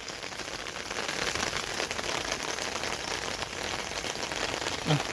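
Heavy rain falling, a dense patter of drops that grows a little louder about a second in.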